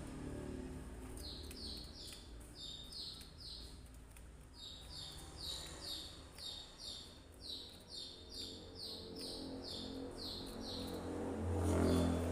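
A small caged bird sold as a kolibri (the Indonesian market name for a sunbird) gives runs of short, high, downward-sliding chirps, about four a second, in several bouts with short pauses. A low hum swells up near the end.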